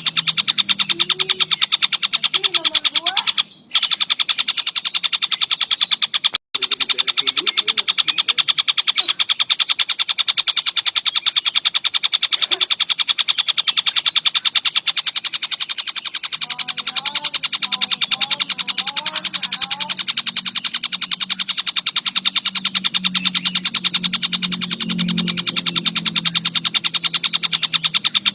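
Collared kingfisher (tengkek buto) calling without pause in a fast, even, run-on series of sharp repeated notes. The recording briefly drops out twice in the first seven seconds.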